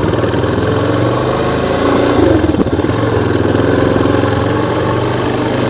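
Yamaha Lander 250's single-cylinder four-stroke engine running steadily, its note briefly changing about two and a half seconds in.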